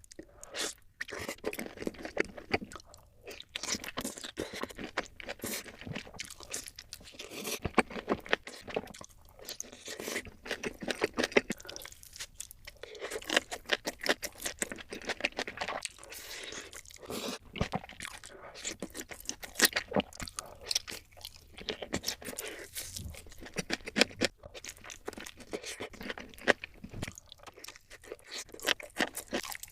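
Crunchy food being bitten and chewed: a dense, irregular run of crisp crunches with a few brief pauses.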